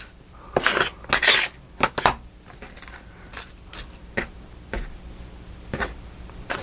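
Small paper cut-outs and craft supplies being handled on a table: a few short rustles in the first two seconds, then scattered light taps and clicks.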